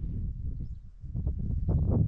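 Strong wind buffeting the microphone: a gusty low rumble that rises and falls, swelling toward the end.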